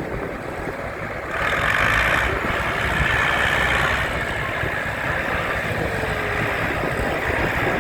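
A machine's engine running steadily, with a rushing noise that grows louder about a second and a half in.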